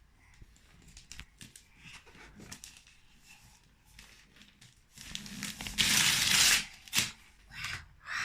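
Gift wrapping paper crinkling and tearing as a present is unwrapped: scattered soft rustles at first, then a loud stretch of tearing and crumpling from about five seconds in.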